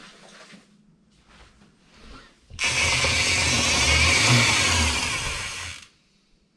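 A motor vehicle's engine running loudly for about three seconds, starting abruptly and then dying away.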